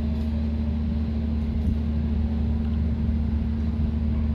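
Diesel locomotive idling, standing at the station: a steady low engine hum with a constant tone above it.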